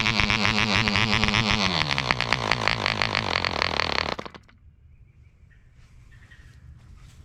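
Webra 1.5cc model airplane diesel engine running, slowing with its pitch dropping after about a second and a half, then stopping abruptly about four seconds in.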